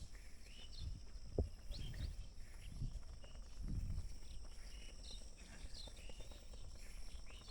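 Footsteps of a person walking, a dull thump about once a second, with short bird chirps scattered throughout and a steady high insect hiss behind them.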